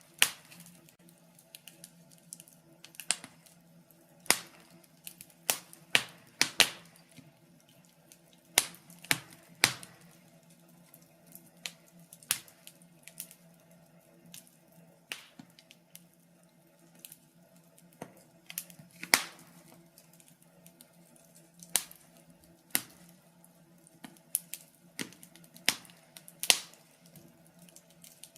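Wood fire in a fireplace crackling: irregular sharp pops and snaps, a few louder ones, over a faint steady hum.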